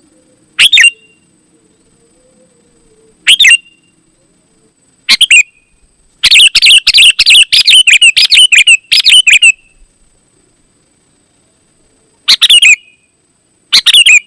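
Sooty-headed bulbul (kutilang) singing loud, bubbly whistled phrases: three short phrases spaced a couple of seconds apart, then a fast chattering run of notes lasting about three seconds, then two more short phrases near the end.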